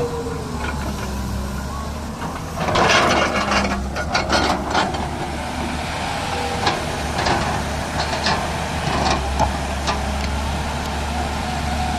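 Diesel engine of heavy earth-moving machinery running steadily, with a burst of louder rushing noise about three seconds in and scattered knocks after it.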